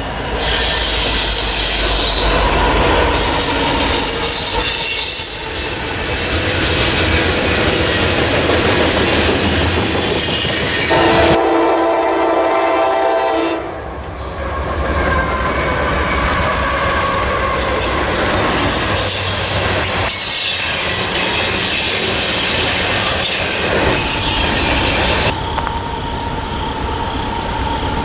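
Trains passing at close range: steady rumble of wheels on rail with high-pitched wheel squeal. A locomotive horn sounds a chord for a few seconds about eleven seconds in. The sound cuts abruptly between several different trains.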